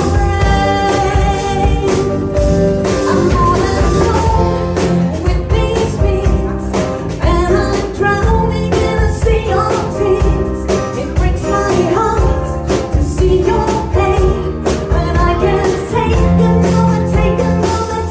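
Pop-rock ballad played by a band with drums, with a lead vocal singing over it.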